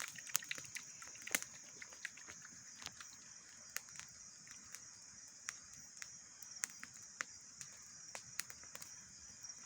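Wood campfire crackling with irregular sharp pops, over a steady high chirring of night insects.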